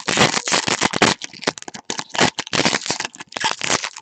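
Trading cards being handled and sorted: fast, irregular rustling and crinkling of card stock and packaging.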